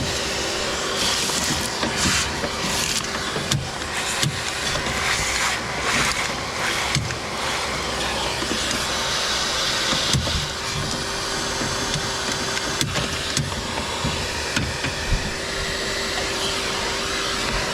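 Steady machine noise: a constant hum under an even rushing sound, with scattered clicks and knocks.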